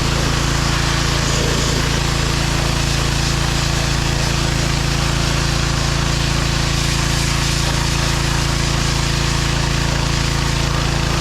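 John Deere 1025R compact tractor's three-cylinder diesel engine running steadily, at an unchanging loud level.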